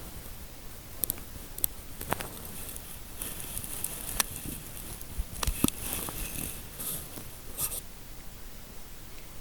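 Close-up soft scratching and rustling with scattered light clicks and ticks, a busier patch of crackly rustling in the second half: ASMR scalp-massage sounds of fingers working through hair.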